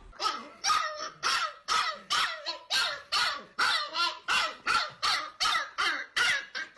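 A dog barking over and over in a steady run, about three barks a second.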